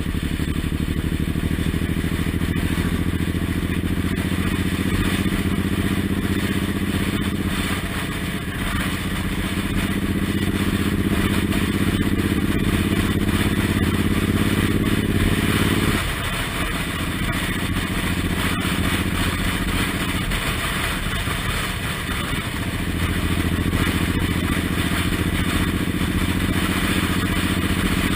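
Suzuki Intruder R1800's V-twin engine running at speed. About halfway through the engine note drops abruptly and stays low for several seconds, then picks up again.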